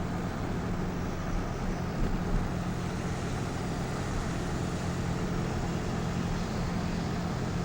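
Steady engine and road noise of a car driving, with a low hum.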